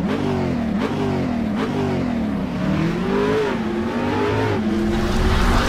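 Car engine revving, its pitch jumping up and sliding back down several times.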